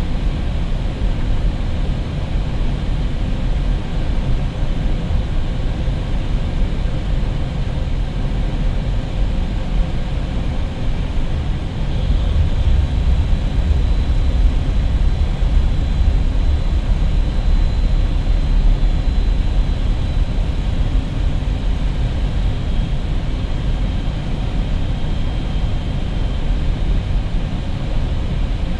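Steady rush of airflow and engine noise inside an Airbus A320neo in flight on approach, growing a little louder about twelve seconds in.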